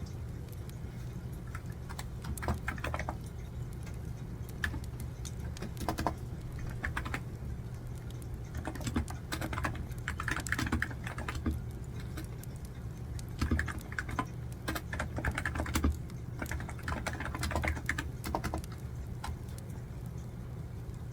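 Typing on a computer keyboard in bursts of quick keystrokes with short pauses between them, over a steady low hum.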